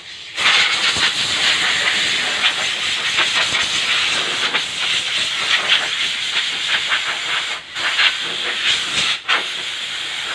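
Steady, loud hiss like a jet of compressed air. It breaks off briefly twice near the end.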